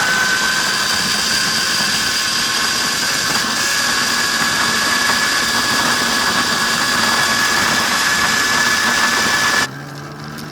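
Tuttio Soleil01 GB electric dirt bike's motor whining steadily while riding, its pitch creeping slightly upward over a hiss of wind and tyre noise. The sound cuts off suddenly near the end.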